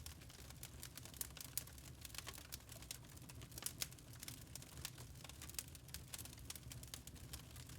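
Log fire crackling in a fireplace: irregular sharp snaps and pops from the burning wood over a low steady rumble.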